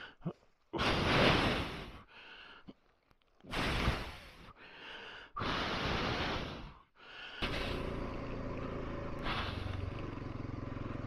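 A few short bursts of rushing noise with near silence between them. About seven and a half seconds in, a motorcycle engine starts running steadily.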